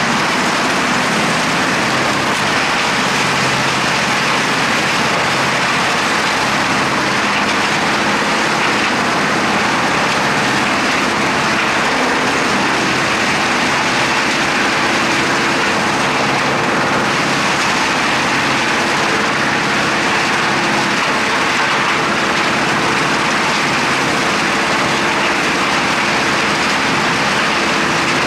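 Wood chipper and its tractor running steadily under power, a loud even mechanical noise with faint steady engine tones.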